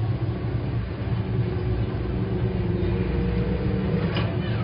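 Steady low background rumble, with a brief sharp sound near the end.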